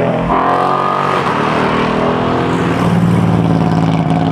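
Loud car engine revving as it pulls away, its pitch rising in the first second, then a lower, steady drone from about two and a half seconds in.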